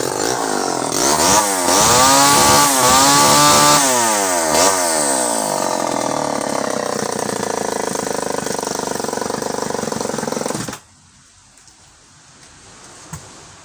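Vintage Pioneer 1200 58cc two-stroke chainsaw revving up and down several times, then settling to a steady run before cutting off abruptly about eleven seconds in.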